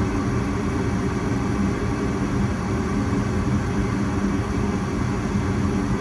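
Goodman gas furnace running steadily with its burners lit, a constant low hum and whoosh with no break. The flame is staying lit now that the flame rod (flame sensor) has been cleaned of deposits.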